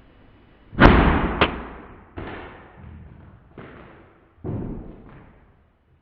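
A run of about six booming bangs, the first and loudest about a second in, each dying away quickly.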